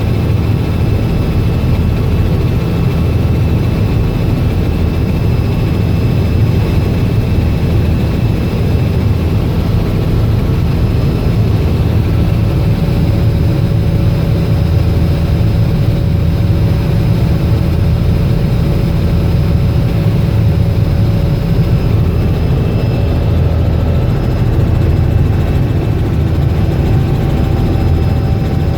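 Robinson R66 helicopter in flight, heard from inside the cabin. Its Rolls-Royce RR300 turbine engine and rotor make a loud, steady drone with faint steady whining tones above it.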